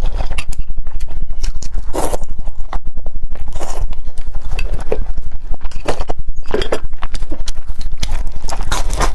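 Close-miked chewing of fried dough sticks (youtiao), a rapid run of crisp crunches and wet mouth clicks.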